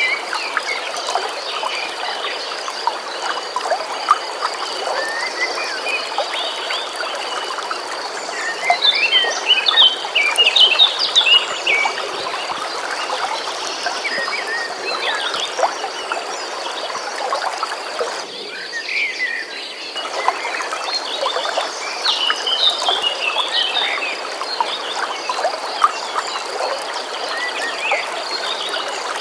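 Flowing stream water with songbirds singing in bursts of quick chirps and whistles, over a steady high-pitched trill. The water noise briefly drops out about two-thirds of the way through.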